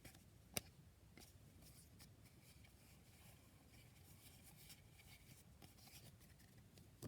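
Near silence with faint rustling and scraping of baseball cards being handled, and one sharp click about half a second in.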